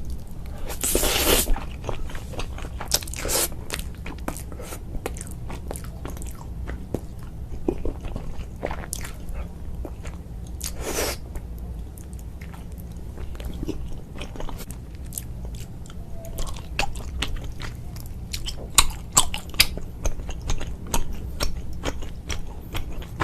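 A person eating noodles close to the microphone: steady chewing and biting with many small wet mouth clicks, and a few louder bursts about a second in and around eleven seconds in. A steady low hum runs underneath.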